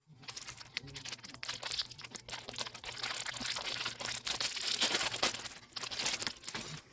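Plastic packaging crinkling and crackling, with some tearing, as a packaged castella sponge cake is unwrapped; a dense crackle that stops suddenly at the end.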